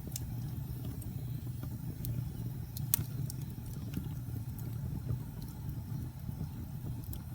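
Fireplace fire crackling: a steady low rumble of flames with scattered sharp pops, the loudest about three seconds in.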